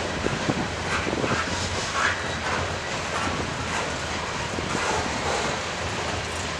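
A passing train: a steady rumble and rolling noise of railcars on the track, with scattered clicks from wheels over rail joints.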